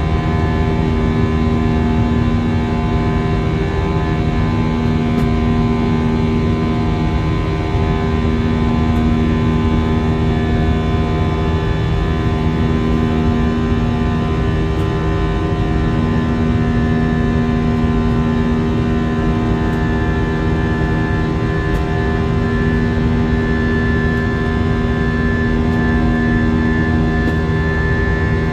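Airbus A319 jet engine and airflow noise heard inside the passenger cabin after takeoff: a steady loud rumble with several steady hums. One low hum fades in and out every few seconds.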